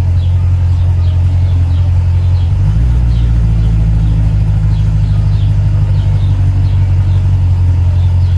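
Car engine running steadily with a deep rumble; its pitch steps up slightly about two and a half seconds in and holds there.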